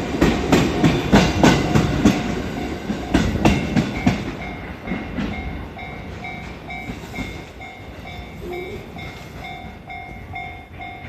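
Wheels of an EF81-hauled train of E231 series cars clacking over rail joints, the clacks fading out over the first four seconds as the train pulls away. Then a repeating on-off bell-like tone, about two a second.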